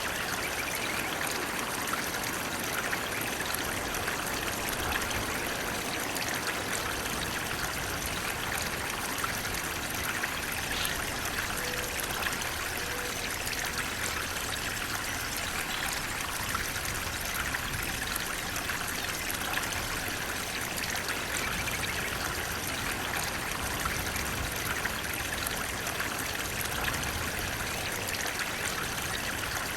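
Flowing water, a steady unbroken rush like a stream running over a shallow bed.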